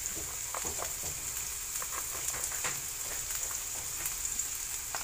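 Garlic, ginger, onion, leeks and chili sizzling in olive oil in a nonstick frying pan, sautéing: a steady hiss with scattered small crackles and pops.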